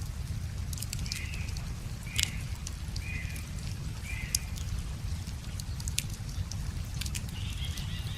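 Wood fire crackling with scattered sharp pops over a steady low rumble, while a bird gives four short calls about a second apart and a longer call near the end.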